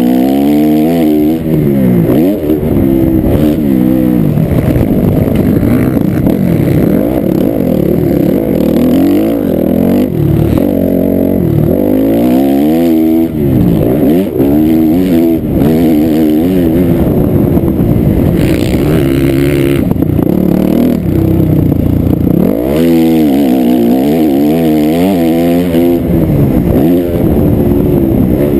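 Dirt bike engine under hard riding, its pitch climbing and falling again and again as the rider accelerates, shifts and rolls off the throttle.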